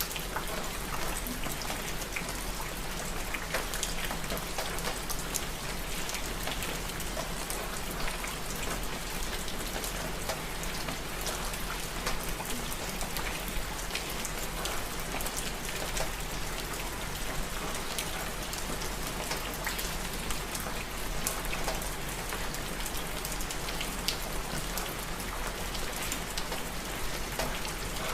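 Steady rain: a dense, even hiss of rainfall with many individual drops ticking through it.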